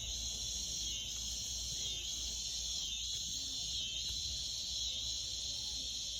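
A steady, high-pitched chorus of insects, which the speakers take to be cicadas, swelling and dipping slightly about once a second.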